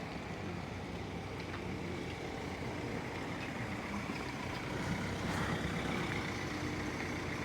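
Steady running of a heavy vehicle's engine in road traffic, getting slightly louder about five seconds in.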